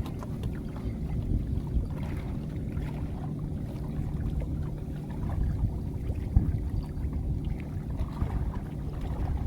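Small boat's motor running steadily on the river, a low, even rumble.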